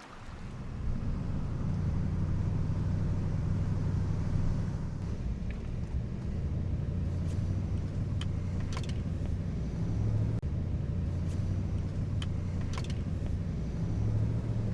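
Truck engine running with a steady low rumble, with a few faint clicks over it.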